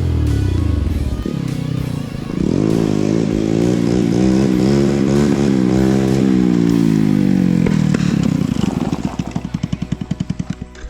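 Small mini bike engine revving up and down through the gears. Near the end it drops to a slowing, pulsing putter as it comes off the throttle toward idle.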